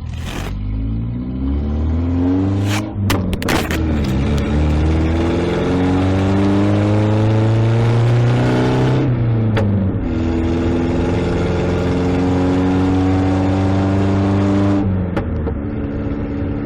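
Car engine accelerating hard through the gears. The revs climb, break at an upshift about three seconds in, climb again, shift once more near the tenth second, then hold steady before easing off near the end.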